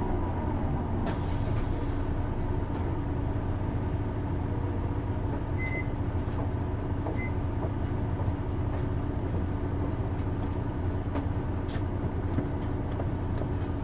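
Isuzu Erga city bus's inline-six diesel idling steadily, heard from inside the passenger cabin. Two short high beeps sound about six and seven seconds in.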